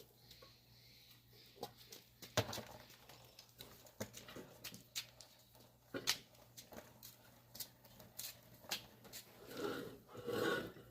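Irregular clicks, taps and knocks of hands and tyre tools working a tyre bead onto a small dirt-bike's rear rim, with a longer rustling patch near the end.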